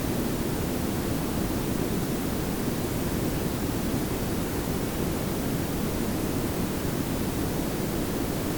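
Steady synthetic pink noise layered with brown noise: an even hiss over a heavier low rumble, with no changes.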